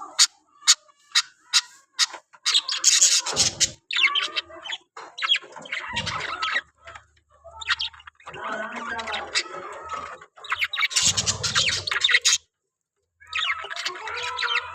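Pet parrot chirping and squawking in quick bursts of chatter, with a run of sharp clicks in the first two seconds and a pause of about a second near the end.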